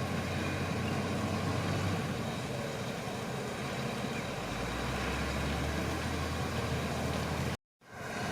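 Shantui crawler bulldozer's diesel engine running steadily, its low hum dropping to a lower note about halfway through. The sound cuts out for a moment near the end.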